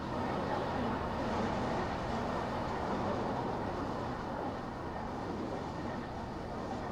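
Car driving on city streets: a steady mix of tyre and engine noise with no sharp events, a little louder in the first few seconds.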